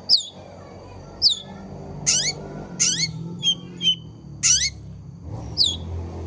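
Long-tailed shrike (cendet) singing actively: a string of sharp, high calls about once a second. Some are thin whistles that sweep down in pitch, and others are harsher, raspier notes.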